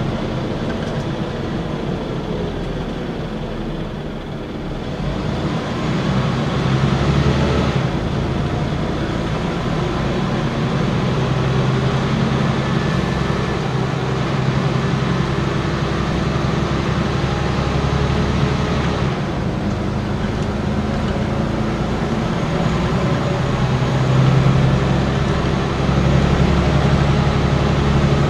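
Scania N94UB single-deck bus engine and drivetrain running while the bus drives, heard from on board. The engine note grows louder about five seconds in as the bus pulls harder, then holds steady.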